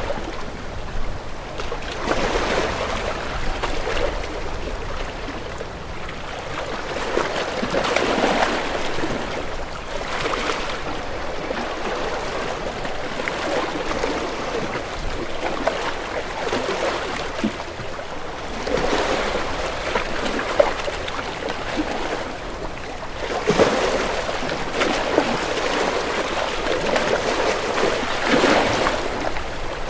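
Sea waves washing and splashing, swelling and easing every few seconds with small splashes throughout.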